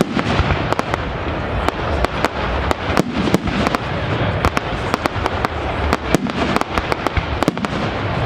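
Fireworks display: a dense, irregular run of sharp bangs and crackles, several a second, over a continuous noisy background.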